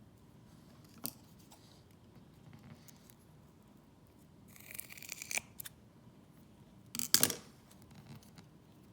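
Scissors cutting into the rubbery skin of a stretchy toy: a sharp click about a second in, a longer scraping cut around the middle, and a louder snip a couple of seconds later.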